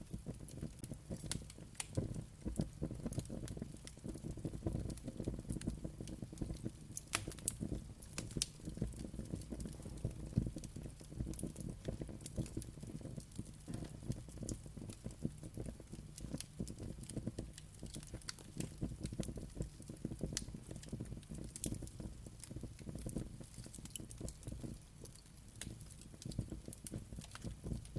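Wood fire crackling: a steady low rumble of flames with irregular sharp pops and snaps.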